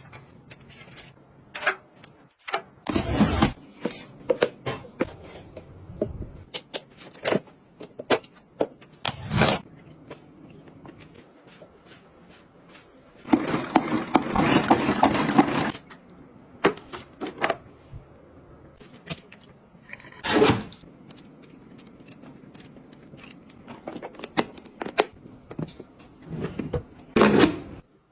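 Handling noises from household gadgets: scattered clicks, knocks and scrapes, with a few short rushing bursts and a longer rushing sound of about two seconds midway.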